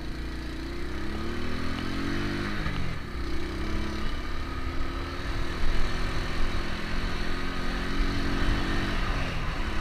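Honda Biz step-through motorcycle's single-cylinder four-stroke engine under way on a dirt road, its note climbing, dropping back about three seconds in, then holding fairly steady with another rise and dip near the end. Wind rushes over the helmet-mounted microphone.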